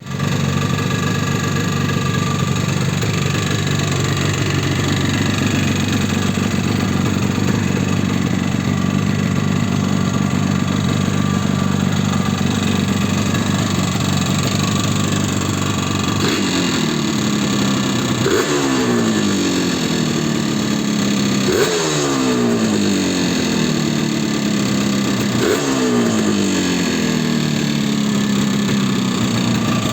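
Yamaha RD350's two-stroke parallel-twin engine idling with horrendous piston slap from worn pistons, then blipped four times in the second half, each rev rising sharply and falling back to idle.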